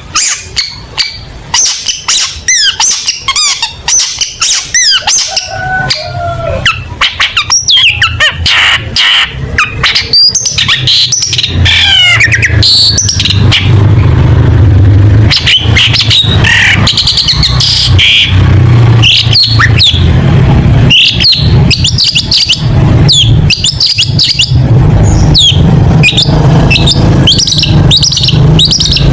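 Long-tailed shrike singing a loud, rapid, varied song of chirps, harsh clicks and short whistles, with a low steady hum underneath from about six seconds in.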